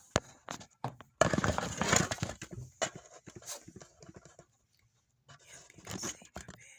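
Handling noise as someone moves things about: scattered knocks and clicks, with a second or so of rustling and scraping about a second in.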